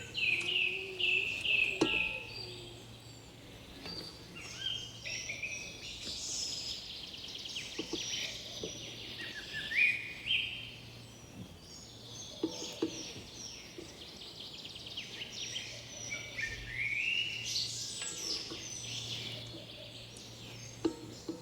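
Several birds chirping and singing in quick phrases that rise and fall, overlapping one another. A faint steady low hum and a few light clicks sit underneath.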